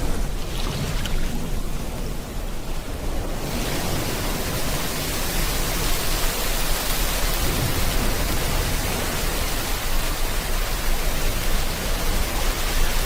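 Rain and ocean waves: a steady wash of surf, with the hiss of heavy rain suddenly growing fuller about three and a half seconds in and then holding steady.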